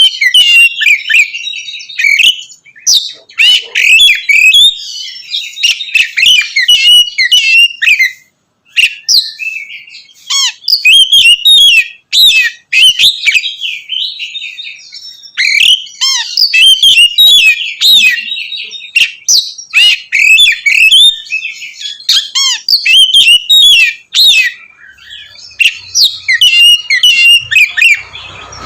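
Oriental magpie-robin (kacer) singing a loud, fast, varied song of whistled and chattering notes, with short breaks about 8 and 12 seconds in.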